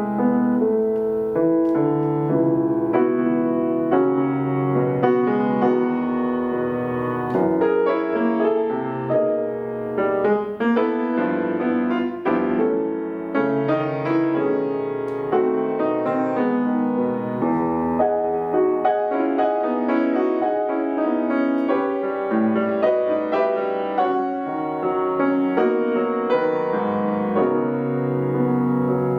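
Solo piano playing: chords with a melody line over them, notes struck and held, at an even, moderate loudness with no other instruments.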